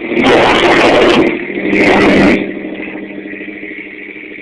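Toyota pickup engine idling through an aftermarket exhaust, blipped twice so the exhaust note rises to two loud, brief bursts before settling back to a steady idle.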